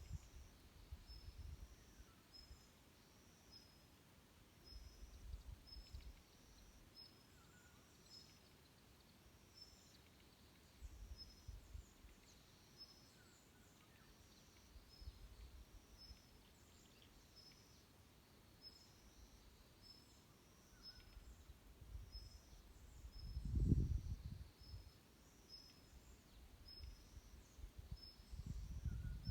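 Forest birds singing faintly: one bird repeats a short, high, thin note about one and a half times a second, with other brief falling calls among it. A few low rumbles come and go, the loudest about three-quarters of the way through.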